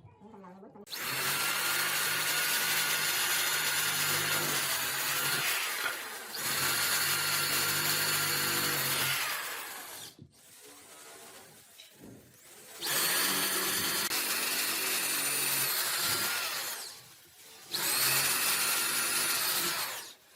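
An electric power tool working wood, switched on and off in four runs of a few seconds each. Its motor whine spins up at the start of each run and stays steady while it cuts.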